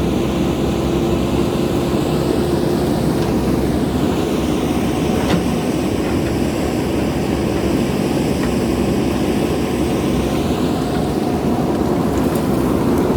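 Steady running of an engine or motor, heavy in the low end, with a steady hum that fades out about four seconds in.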